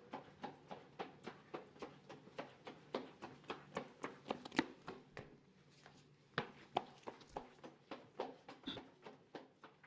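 Footsteps on a hard hallway floor, walking at a steady pace of about three steps a second. A few steps land harder, and there is a brief lull around five to six seconds in.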